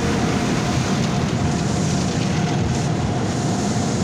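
Automatic car wash machinery running, heard from inside the car's cabin: a steady rush of spray, brushes or blowers over a low rumble.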